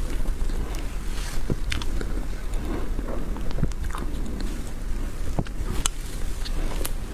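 Close-miked mouth sounds of eating whipped-cream sponge cake: soft wet chewing and lip smacks, with scattered sharp clicks at irregular intervals.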